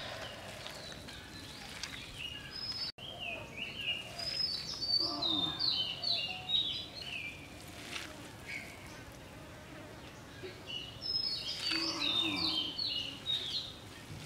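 A songbird singing two phrases of quick, high, downward-sliding whistled notes, a few seconds apart, over faint outdoor background noise.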